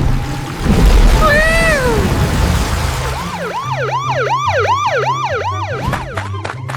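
Siren-like cartoon sound effect: a pitch that sweeps quickly up and down, about three times a second, over background music with a steady bass line. A single falling whistle-like glide comes before it, and a few sharp clicks close it near the end.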